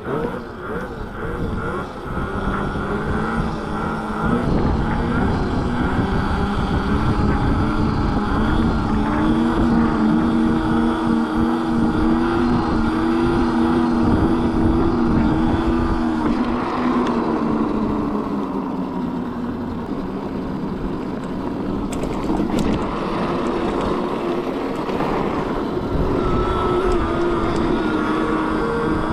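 Dragster mini bike's motor running under way, its pitch climbing about four seconds in, holding steady, then dropping off around the middle before rising again near the end, over a low rumble of wind and road noise.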